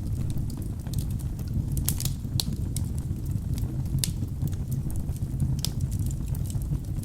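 Wood fire burning in a fireplace: a steady low rumble of the flames with frequent irregular sharp crackles and pops from the logs.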